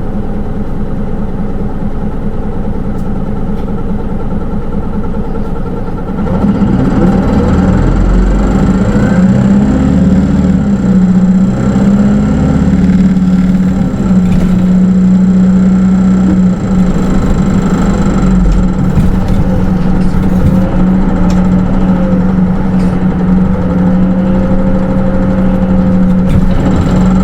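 Interior sound of a Hino Rainbow II city bus with an automatic transmission, its diesel engine running quietly for about six seconds, then growing louder as the bus pulls away and drives on, with a steady low hum and rumble.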